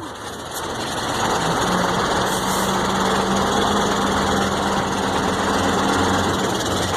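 Mercedes-Benz 1634 truck drivetrain growling, with a steady low hum over the running diesel. The noise swells over the first second and then holds. It is the noise that comes when the driver lifts off the accelerator, which the mechanic traces to the differential, badly enough that he fears it will break apart.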